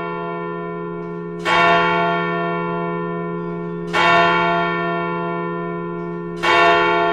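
A large bell tolling, struck three times about two and a half seconds apart. Each strike rings on with a long, slowly fading hum that carries into the next.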